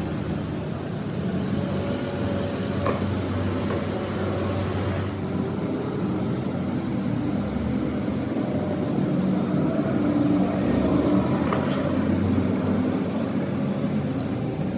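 A machine motor running steadily with a low, even hum, and a faint click or two.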